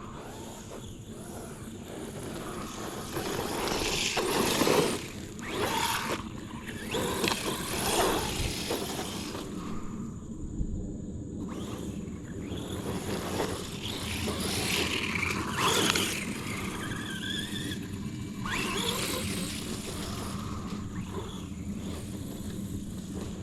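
RC truck's 2300kv brushless motor whining in repeated bursts of acceleration as it is driven off-road, the pitch rising and falling with the throttle. The loudest surges come about four to five seconds in and again around sixteen seconds.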